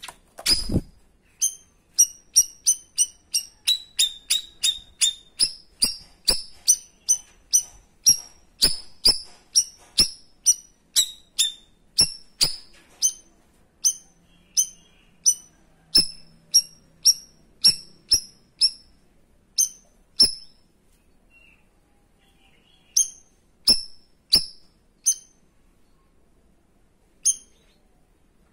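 Cucak rawis giving its 'tembakan': a long run of sharp, clipped high chirps, about two a second, with short pauses near the end. A single dull thump sounds just after the start.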